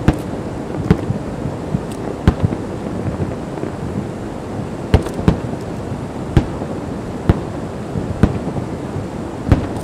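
Fireworks going off: about ten sharp bangs at irregular intervals, roughly one a second, over a steady noisy background.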